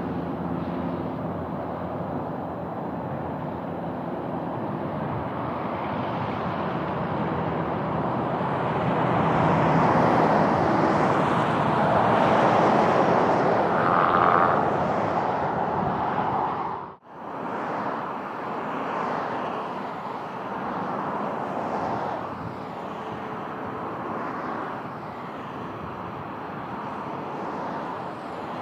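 Aircraft engine noise swelling as a plane passes, loudest between about ten and fifteen seconds in, with a short whine near the peak, over steady wind buffeting on the microphone. The sound cuts out abruptly about seventeen seconds in, then a lower steady rush of engine and wind noise resumes.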